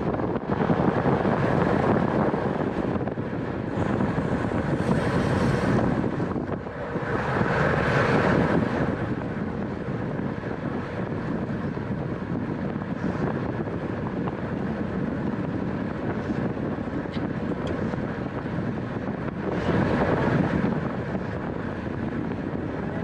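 Wind rushing over the microphone of a racing bicycle moving at speed, with tyre and road noise underneath. The rush swells louder a few times, about a second in, around five and eight seconds in, and again near the end.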